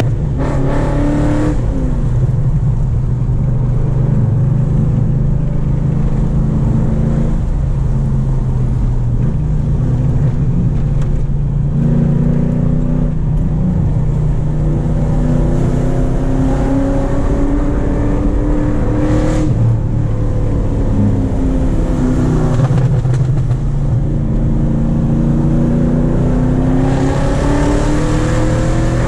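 Cammed 6.0 L LS2 V8 of a 2004 HSV VZ Clubsport, heard from inside the cabin while driving. Its note rises and falls several times as the revs climb and drop.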